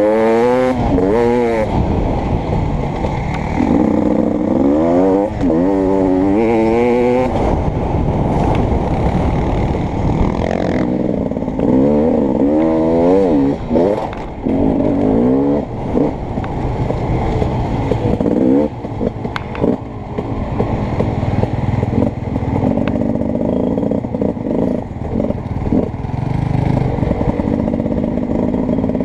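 Beta 300RX two-stroke motocross bike engine being ridden hard, its pitch repeatedly climbing and dropping as the throttle is opened and shut through the gears, with rattles and knocks from the bike.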